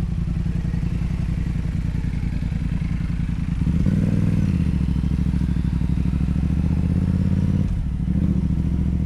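Motorcycle engine running under way. The engine note rises about three and a half seconds in, holds, then drops briefly near the end before picking up again, like a gear change.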